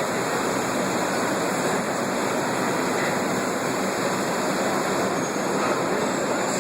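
R62A New York City subway train running into the station, a steady rushing noise of wheels on rail that holds even throughout.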